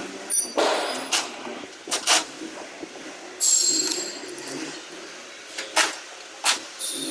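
Irregular knocks and clanks of metal on metal from panel work on truck cab sheet metal, with a short ringing, scraping stretch about three and a half seconds in.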